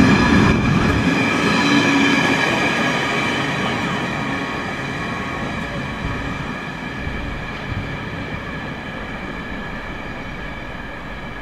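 Freight train wagons rolling past on the track and then away, the rumble fading steadily, with steady high-pitched ringing tones from the wheels over it.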